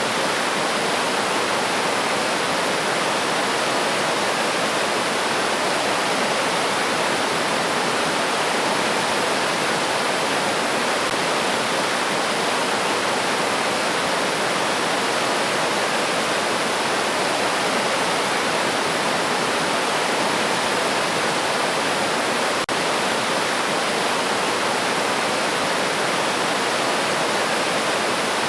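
River stream water flowing and rushing steadily over rocks.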